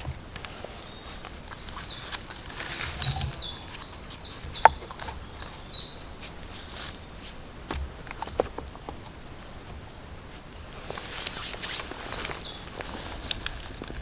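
A songbird singing a rapid string of high, falling notes, about two or three a second, in two phrases: a long one in the first half and a shorter one near the end. Scattered small clicks and snaps are also heard, the sharpest about halfway through.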